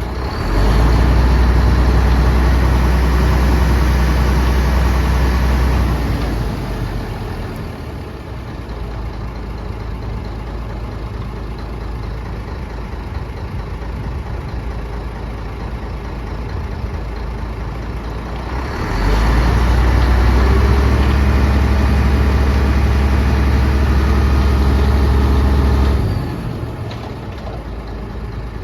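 Scania P124-360 mixer truck's straight-six diesel idling. It is twice raised to a steady higher speed and held there, for about five seconds near the start and about seven seconds later on, each time dropping back to idle.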